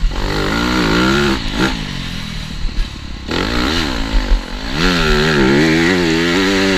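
TM Racing 250 Fi four-stroke motocross bike engine revving up and dropping off the throttle again and again, its pitch rising and falling. It goes quieter and lower for about a second a couple of seconds in, then picks up again.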